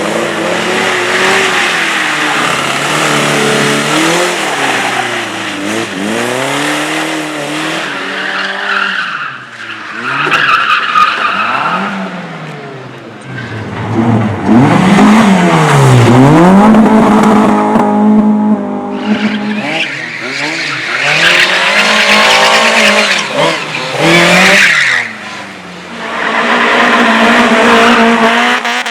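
Race car engine revving hard and falling back over and over as it is driven through a slalom course, with tyres squealing and skidding. It settles to a steadier engine note near the end.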